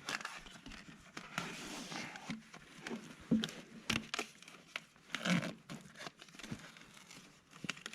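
Faint scattered clicks and light knocks of hands-on work, with a little rustling; no engine running.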